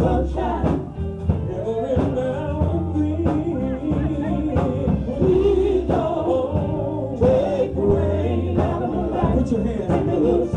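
Live gospel music: a band playing with a steady drum beat and a bass line, with singing.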